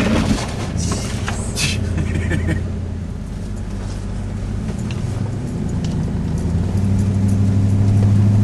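Car engine and road noise heard from inside the cabin while driving through snow: a steady low hum that grows louder over the last second or two.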